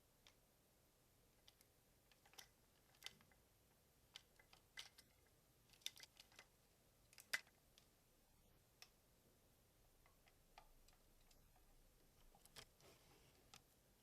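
Faint, irregular clicks and taps of a hard plastic toy robot's parts being handled and posed. The loudest click comes a little past the middle.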